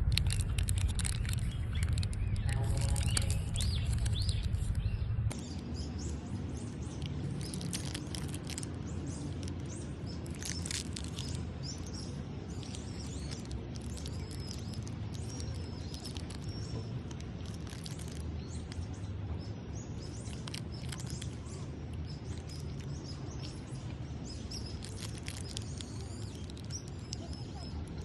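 A loud low rumble for the first five seconds that cuts off suddenly. After it, birds chirping over steady outdoor background noise.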